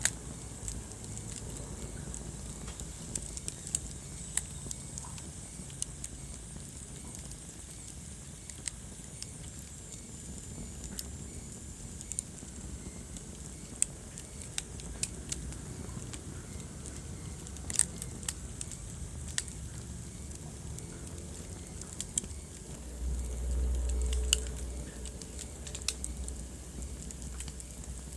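Wood fire burning in a fireplace: irregular sharp crackles and pops over a low steady rumble of flames, with a brief louder rumble about three-quarters of the way through.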